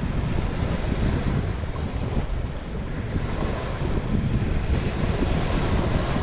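Sea surf breaking and washing up a beach, with wind buffeting the microphone in a low rumble. The wash swells about a second in and again near the end.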